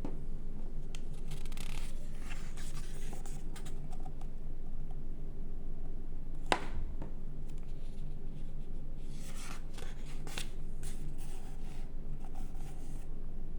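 Magazine pages being handled and turned: soft papery swishes and rustles in two spells, with one sharp tap about halfway through, over a steady low hum.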